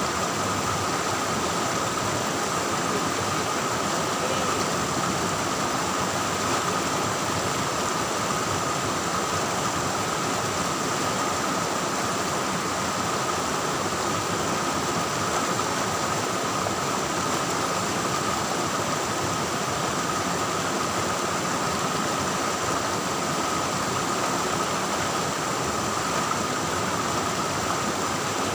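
Steady rushing of river water, an even noise that doesn't change, with a thin steady high-pitched whine over it.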